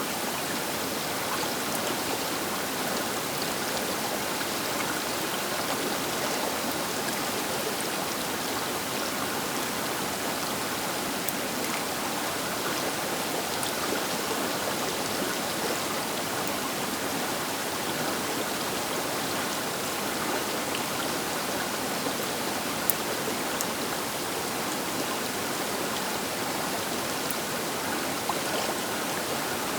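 Baker River flowing past its bank: a steady, even rush of water with faint droplet ticks.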